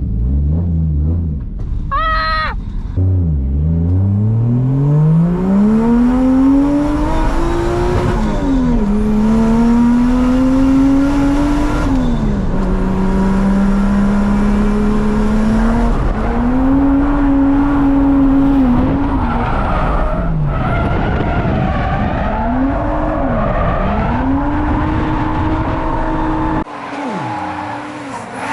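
Drift car engine revving hard, its pitch climbing, holding and falling repeatedly with throttle and gear changes, with tyres skidding under it. The sound changes abruptly near the end.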